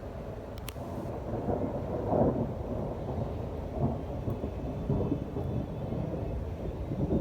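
Thunder rumbling, swelling about two seconds in and rolling on in uneven waves.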